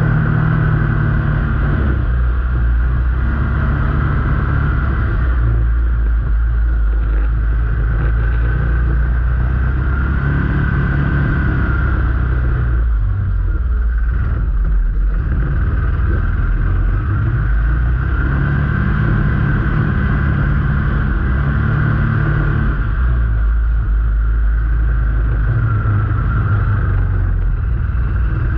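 Motor vehicle engine running steadily while driving, its pitch easing off around halfway and picking up again as the throttle changes.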